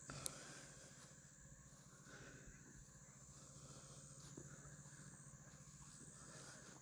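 Near silence: a faint steady low hum and thin high hiss of background noise, with one small click shortly after the start.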